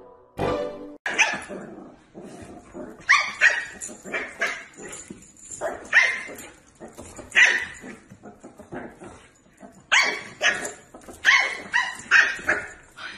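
A dog barking over and over in short barks at uneven intervals.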